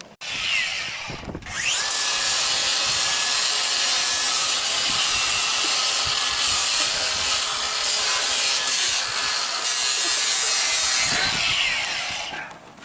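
Power grinder abrading a horse's hoof, a steady loud grinding rasp that starts with a short burst, runs on evenly from about a second and a half in, and dies away near the end.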